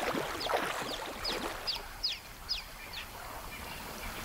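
A bird calling a series of short, high, falling notes, about two or three a second, fading out near the end. Louder, lower falling sounds come in the first second.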